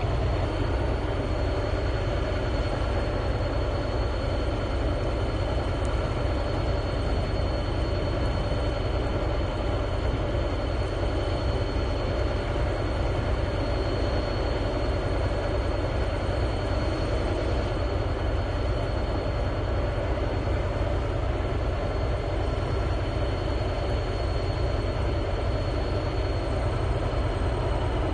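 Steady, unbroken machine rumble with a few faint whining tones over it.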